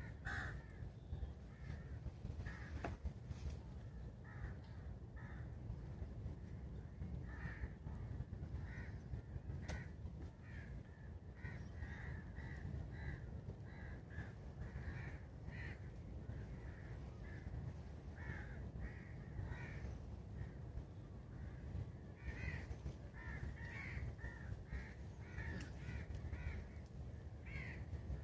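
Birds calling: many short, repeated calls throughout, thickest near the end, over a steady low rumble.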